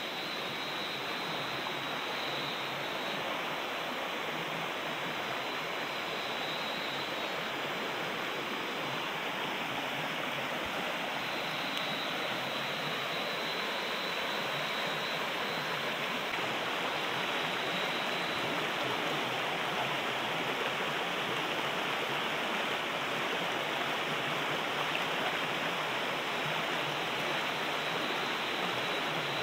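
Steady rush of water, an even, dense hiss that grows slightly louder about halfway through.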